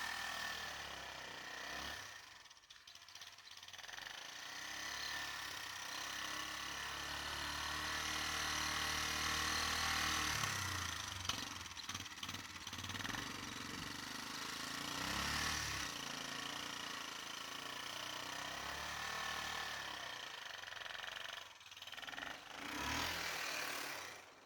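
An engine running, its pitch rising and falling as it revs up and down several times, under a steady hiss. It drops away briefly a couple of seconds in and again near the end.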